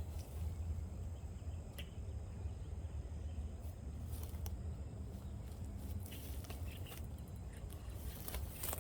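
Outdoor ambience by a pond: a steady low rumble with scattered faint clicks and ticks, one sharper click near the end.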